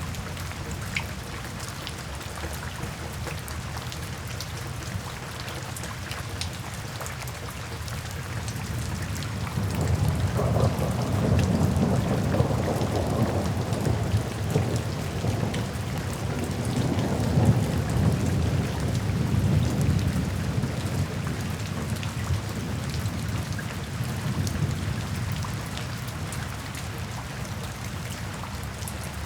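Steady rain falling, with a long, low rumble of thunder that swells about a third of the way in, peaks past the middle and fades away after about ten seconds.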